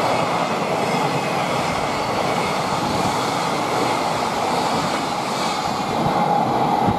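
Container freight train wagons rolling past at speed: a loud, steady noise of wheels on rail, cut off suddenly just after the end.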